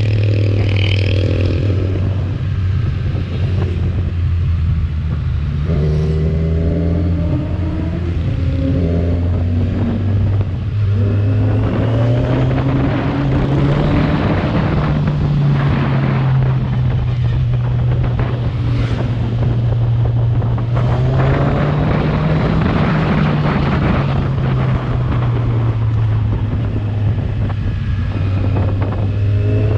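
Kawasaki Z1000R's stock-exhaust inline-four running under way at a fairly steady pace, its note rising and falling gently with the throttle, with wind buffeting the microphone. Fainter rising engine notes sound above it now and then.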